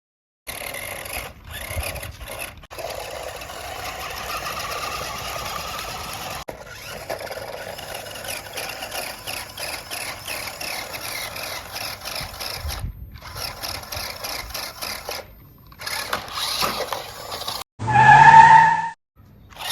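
Toy vehicles running, their small motors whirring and their wheels scraping, heard in several short clips that cut in and out abruptly. About 18 seconds in there is a loud, brief tonal blast that rises slightly in pitch.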